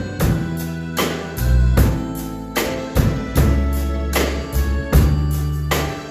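A drum kit played along to a recorded backing track of a slow Korean pop song, with strong hits on a steady beat about every 0.8 seconds over sustained bass and melody.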